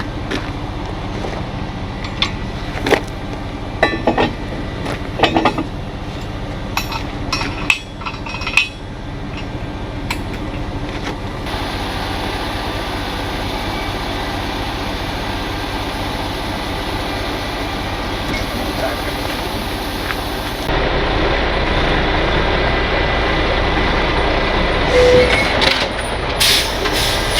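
Truck engine running steadily, with sharp metal clanks and knocks through the first nine seconds or so as tow equipment is fitted under a truck.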